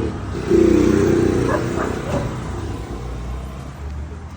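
Consul CWH14 washing machine agitating: the motor hums, stops briefly, then drives the agitator again with a louder hum about half a second in that fades away over the next few seconds.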